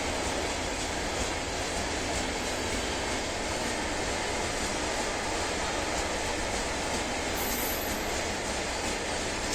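Freight train wagons rolling past, a steady noise of steel wheels on the rails.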